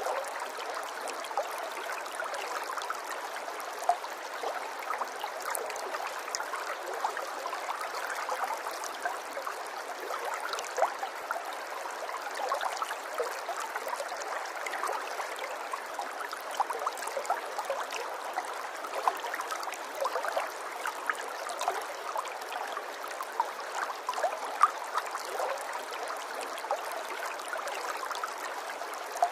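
Running water trickling and gurgling steadily, with many small splashes and drips.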